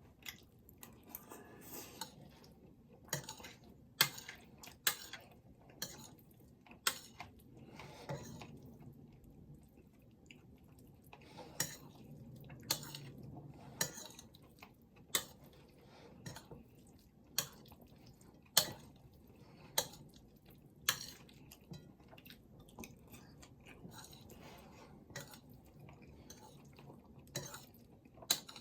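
An eating utensil clinking and tapping against a dish, with sharp, separate clicks coming irregularly about once a second, as the meal is eaten.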